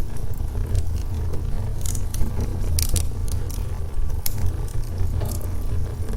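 Wood logs burning in a fireplace: a steady low rumble of flame with irregular sharp crackles and pops scattered through it.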